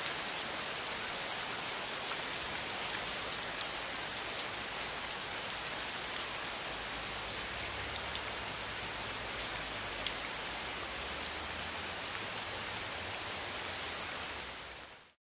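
Steady hiss of dense noise with faint scattered ticks, starting abruptly and fading out about a second before the end.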